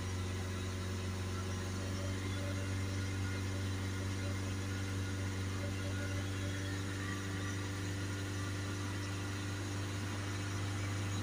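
Car engine running steadily at raised revs, held at about 2500 rpm for a battery tester's charging test of the alternator.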